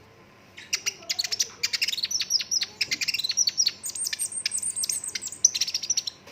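Sunbird singing in full song: a rapid, loud run of sharp, high notes that sweep downward, strung into rolling trills and single shot-like notes. It starts about half a second in and goes on almost without a break.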